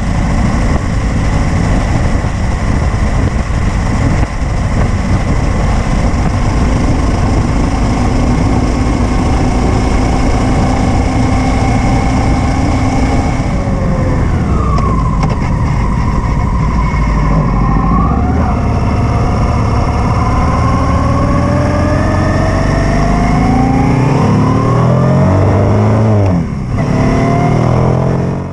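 Honda Africa Twin XRV750 V-twin motorcycle engine running at road speed, heard through heavy wind rush on a bike-mounted camera. Around the middle the revs fall away and pick up again, then climb steadily in the gears toward the end, with a brief dip shortly before it ends.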